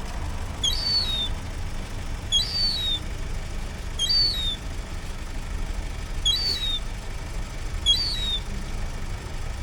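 A bird calling: one short, high chirp, rising then falling, repeated five times about every one and a half to two seconds, over a steady low rumble.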